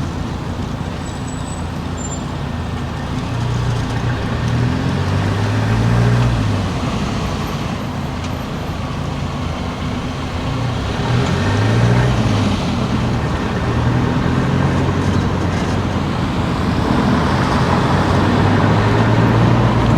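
Car engine and tyre noise while driving, the engine note rising and falling several times as the car speeds up and slows.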